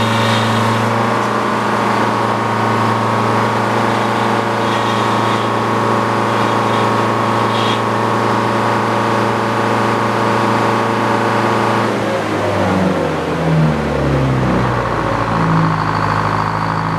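Engine powering an antique Frick sawmill runs steadily at speed. About twelve seconds in, its note drops and wavers, then settles at a lower steady pitch.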